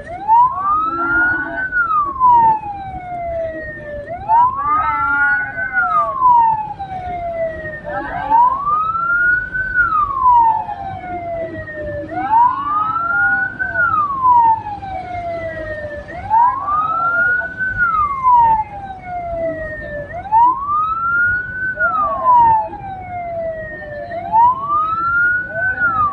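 Hearse siren wailing: a slow rise and fall in pitch, one cycle about every four seconds.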